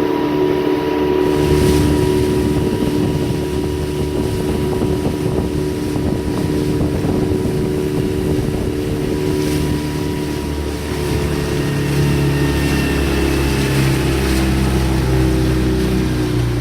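Motorboat engine running steadily under way, its low rumble growing heavier a little past the middle, with wind on the microphone.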